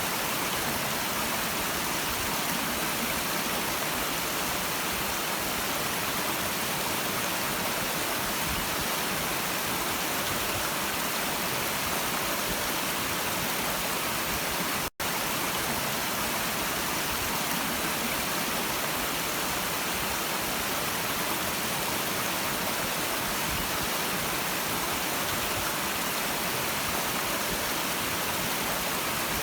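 A stream of running water, a steady even rush with no single splashes standing out. The sound cuts out completely for an instant about halfway through.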